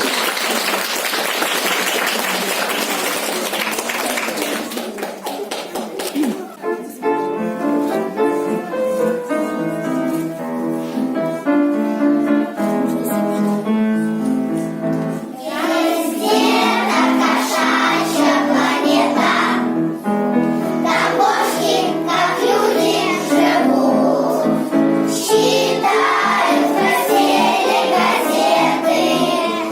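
Children's song with a backing track. A dense, noisy stretch of music fades out about six seconds in, a piano-like melody follows, and children's voices sing along over it from about halfway.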